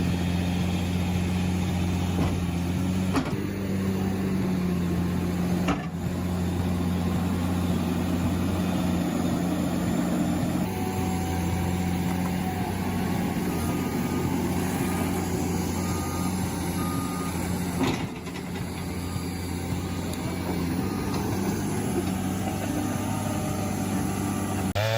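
Heavy machinery engine running steadily with a low hum. Midway, a reversing alarm beeps about once a second for several seconds.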